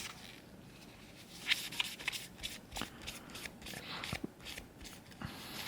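Hands handling and rubbing a small clear plastic model part while polishing it: faint, scattered rustles and light clicks.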